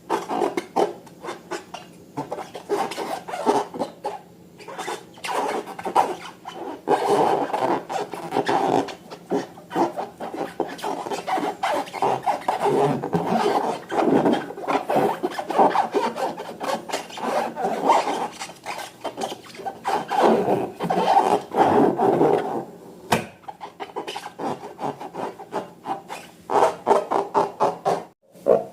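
Slime being squeezed and worked by hand: continuous, irregular sticky squelching and rubbing, dense with small clicks and pops, pausing briefly a few times.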